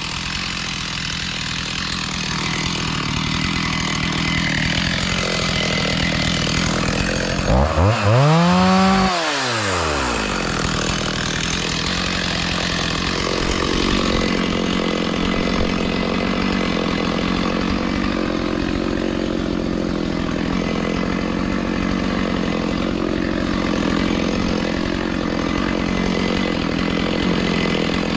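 Chainsaw engine running steadily, with one rev that climbs and falls back about eight seconds in, the loudest moment.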